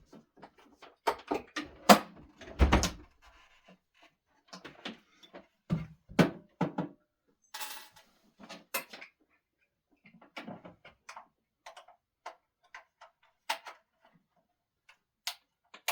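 Irregular knocks, clicks and thuds of objects and parts being handled in a small room, the heaviest thud about three seconds in, with a brief scraping hiss near the middle.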